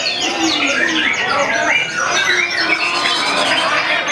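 Many songbirds singing at once: a dense, unbroken tangle of overlapping whistles, chirps and rapid trills.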